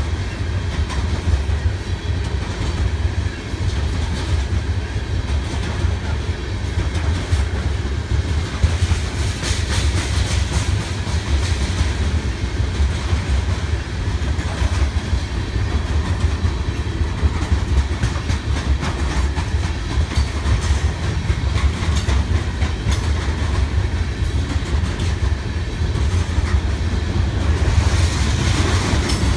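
BNSF coal train's freight cars rolling past: a steady low rumble with wheels clacking over the rail joints.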